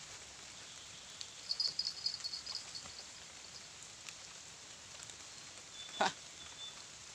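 Steady rain falling, an even hiss. About one and a half seconds in comes a quick run of high chirps lasting about two seconds, and about six seconds in there is a single sharp short sound.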